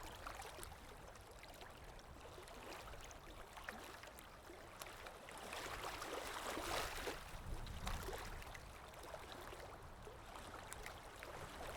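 Wind buffeting the microphone on an exposed sea cliff: a steady rushing noise with low rumble, swelling for a couple of seconds around the middle.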